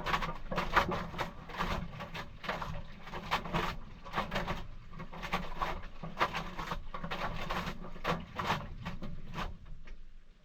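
Maytag washing machine running its cold wash cycle: a steady low motor hum under repeated irregular sloshing, clunking strokes of the agitating load. It winds down near the end.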